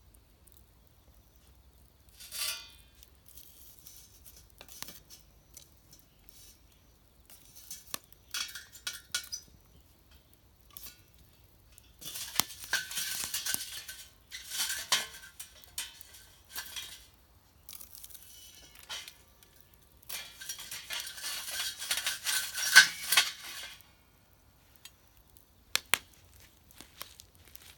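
Metal objects clinking, clattering and scraping against each other in irregular bursts, with a couple of longer busy spells of rattling and a few sharp clicks near the end.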